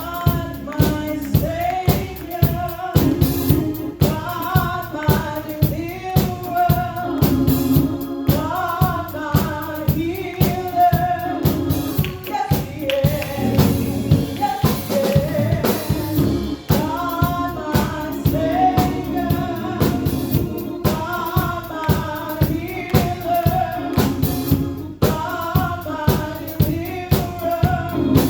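Live gospel praise music: singers carrying the melody over a band with drum kit and tambourine keeping a steady beat.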